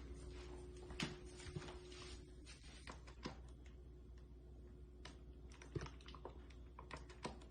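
Quiet room tone with faint, scattered light clicks and taps at irregular intervals.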